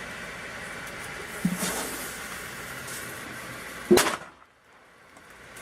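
A firecracker set in an onion is lit, then goes off with one sharp bang about four seconds in.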